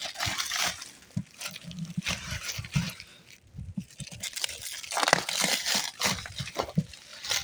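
Packaging being handled and torn open: irregular crinkling, rustling and small clicks as parts are unwrapped.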